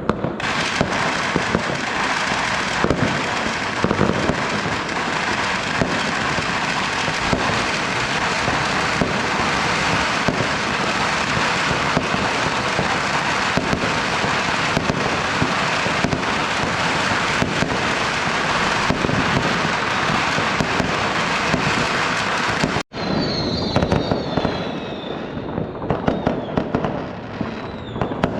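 Fireworks going off in a dense, unbroken barrage of bangs and crackling. About 23 seconds in it cuts off abruptly, then resumes as sparser bangs with a few whistling fireworks gliding in pitch.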